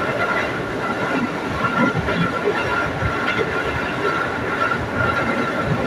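Electric commuter train (KRL) running at speed, heard from inside the carriage: a steady rumble of wheels on rails with a steady high whine over it.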